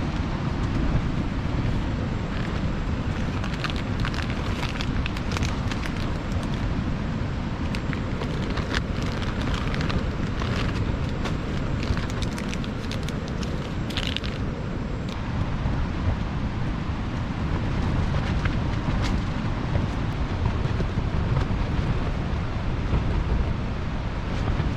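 Strong gusty wind buffeting the microphone in a dense, steady rumble, with heavy rain spattering in many sharp little ticks from a few seconds in until about halfway.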